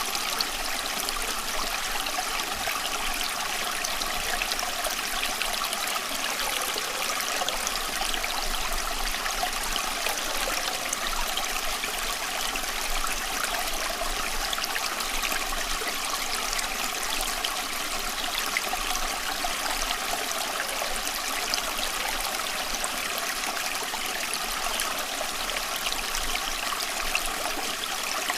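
Steady running water, like a stream, flowing and trickling without a break.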